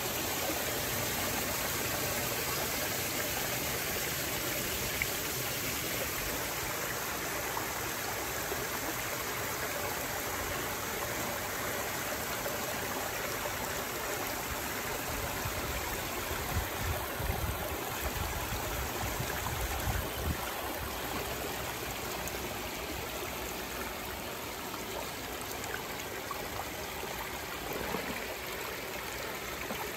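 Water spilling steadily over a small river-rock weir into a backyard pond reservoir. It is a continuous trickling flow, with a few brief low rumbles about halfway through.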